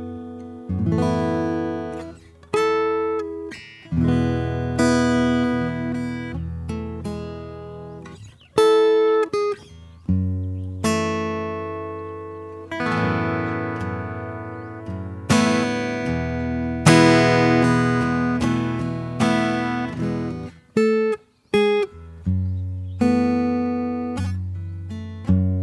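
Solo acoustic guitar playing slow improvised music, chords strummed and plucked and left to ring out, with brief pauses between phrases.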